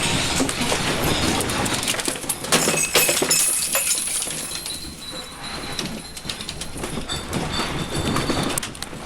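Earthquake shaking: a continuous rumble with objects rattling and clattering, and some clinks like glass.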